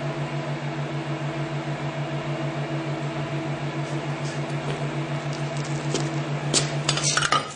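Steady machine hum with a fast, even flutter in its low tone. A few light metallic clicks come near the end.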